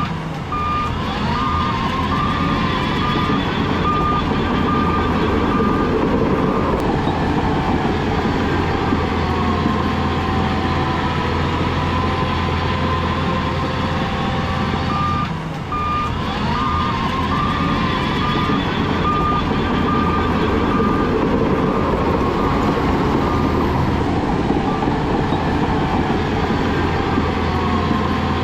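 Heavy diesel earthmoving machinery running steadily, with a reversing alarm beeping about twice a second in two spells of several seconds each.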